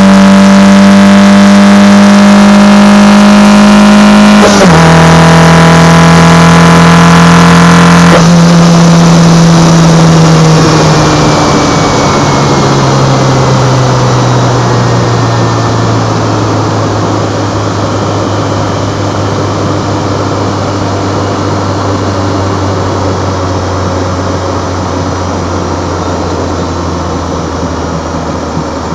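Opel/Chevrolet Kadett GS 16-valve four-cylinder engine breathing through twin Solex C40 ADDHE side-draft carburetors, pulling hard at high revs with an upshift about four and a half seconds in. About eight seconds in the throttle closes and the revs fall slowly and steadily as the car slows.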